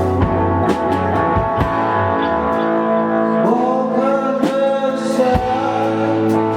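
Live unplugged band music led by guitar, with light percussive hits and a gliding melodic line near the middle.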